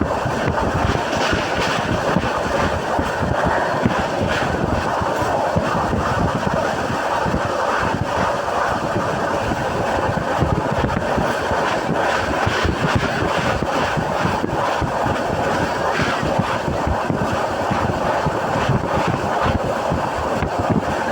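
Passenger train running steadily at speed, heard from inside the coach: a continuous rumble and rush of wheels on rails, with wind noise on the microphone.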